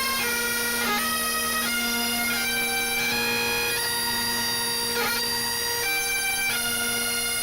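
A pipe band's bagpipes playing a tune: the chanter melody steps from note to note over the steady, unbroken drone.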